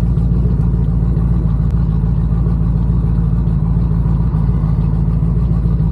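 Twin-turbo LS V8 of a Pontiac G8 running steadily as the car cruises, a constant low drone with no revving.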